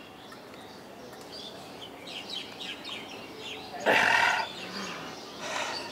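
Outdoor background with small birds chirping. About four seconds in there is a short, louder burst of sound, and a weaker one near the end.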